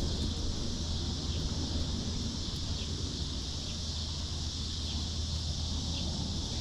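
Orchard ambience: a steady high-pitched drone, faint short chirps about once a second, and low wind rumble on the microphone.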